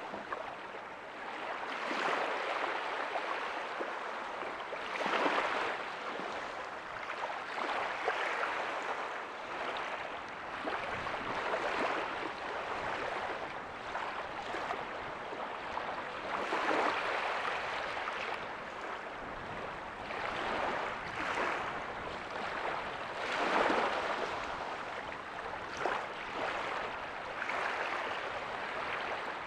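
Small ocean waves breaking softly on a beach, a steady wash of surf that swells every few seconds.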